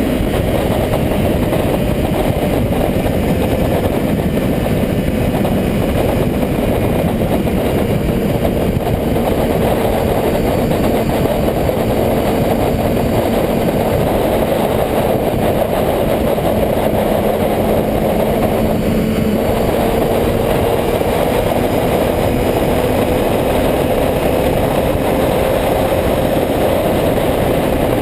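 Motorcycle engine running steadily under a thick layer of noise, its pitch drifting slowly down and then back up.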